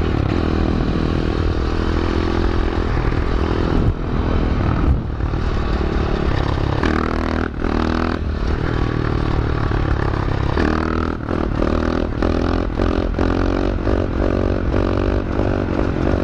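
A 125 cc pit bike's single-cylinder four-stroke engine running under the rider, its pitch stepping up and dropping back as the throttle is opened and closed through the gears, then climbing again repeatedly near the end.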